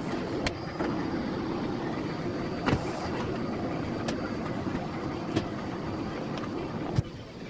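Miele Blizzard CX1 bagless cylinder vacuum cleaner running steadily while vacuuming, with a faint high whine over its airflow noise. A few sharp knocks sound over it, the loudest near the end, after which the running is a little quieter.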